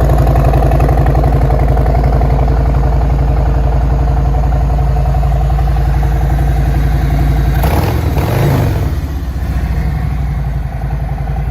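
Harley-Davidson Road Glide Special's Milwaukee-Eight 114 V-twin idling through TAB Performance mufflers. It revs once about eight seconds in, the pitch rising and falling back to idle.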